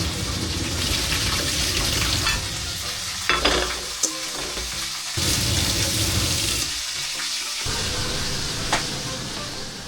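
Food sizzling in a frying pan, a steady hiss that drops away briefly a couple of times, with a few sharp clicks of a utensil against the pan.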